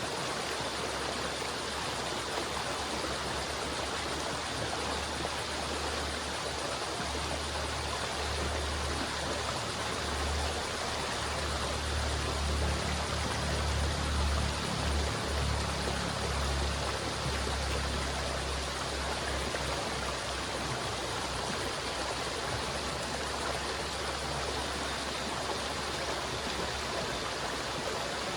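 River water flowing steadily: a continuous rushing with a deep low rumble that swells for a few seconds midway.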